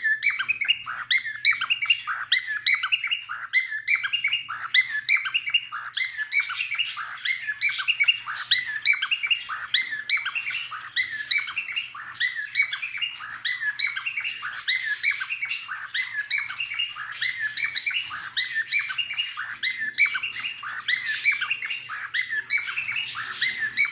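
Cockatiel singing: a continuous run of quick chirps and whistled notes with no pause.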